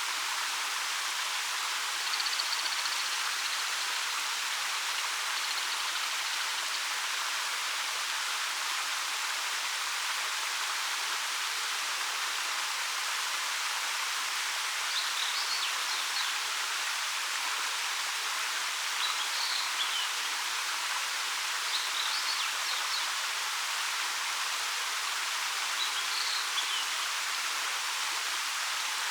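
A 13 m waterfall pouring over rock, a steady rush of falling water. Brief high chirps, likely birdsong, come through it about five times.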